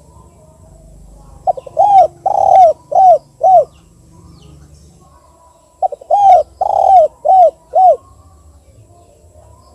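Spotted dove (tekukur) cooing in the 'kuk 2' call type: two calls about four seconds apart. Each call is a short lead-in followed by four arched coos, the second the longest.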